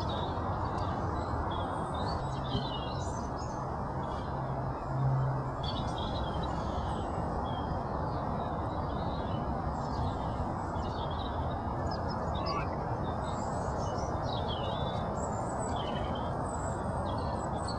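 Birds chirping and calling on and off over a steady rushing background noise. A low hum swells briefly about five seconds in.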